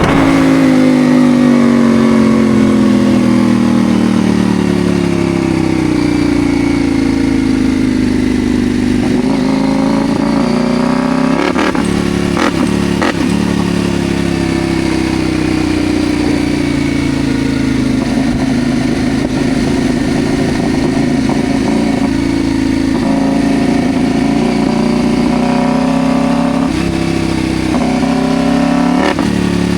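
CFMoto Ibex 800's parallel-twin engine under way, heard from on board. Its pitch falls steadily for the first several seconds as the bike slows, then rises and falls gently at cruising pace. A few sharp knocks come around the middle, and the engine revs up again near the end.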